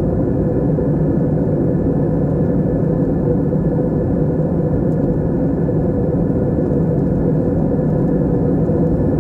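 Steady low drone of an airliner's engines and airflow heard inside the passenger cabin in flight, an even rumble with no change.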